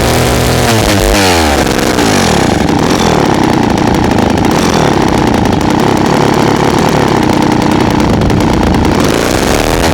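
Vintage Poulan 306A two-stroke chainsaw engine running: revved up and down in the first second and a half, then held steady at high revs for about seven seconds, then revved up and down again near the end.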